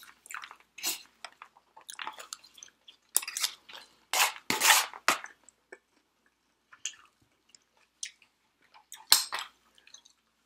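Close-miked chewing of takeout food, with wet chewing and crunching in irregular bursts. The bursts come thickly in the first half, thin out, and there is one loud burst near the end.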